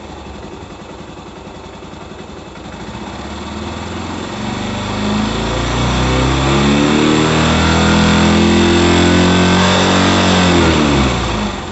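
Fuel-injected Yamaha SR400's air-cooled single-cylinder engine idling, then revved up slowly over about five seconds, held at high revs, and let fall back to idle near the end.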